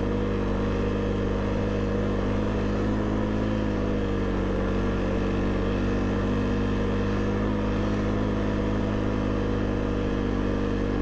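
Snow vehicle's engine running at a steady speed under way, its pitch holding nearly level throughout with no revving.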